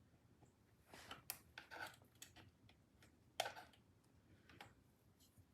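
Near silence broken by a few faint clicks and knocks: a small cluster about a second in, a sharper click a little past the middle, and a light tick near the end.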